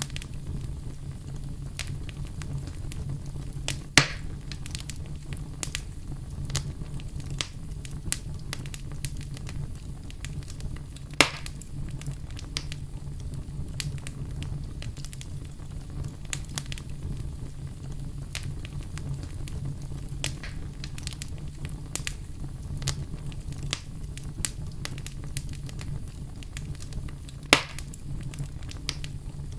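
Wood fire crackling steadily, with many small snaps over a low rumble of burning and three sharp, louder pops about 4, 11 and 27 seconds in.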